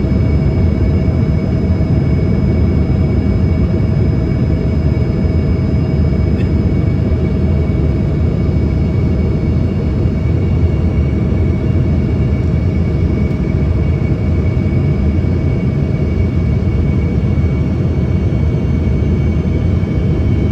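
Steady cabin noise inside an Embraer ERJ-145 in flight: a dense low rumble of airflow with the steady whine of its rear-mounted Rolls-Royce AE 3007 turbofan engines, holding several even tones.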